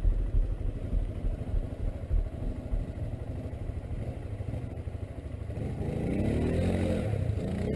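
Quad bike (ATV) engine running with a rough low rumble, its revs rising about two-thirds of the way through.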